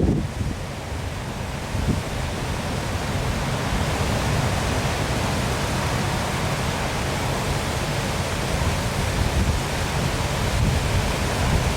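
Waterfall pouring steadily, an even rushing hiss. Low wind rumble on the microphone near the start and the end.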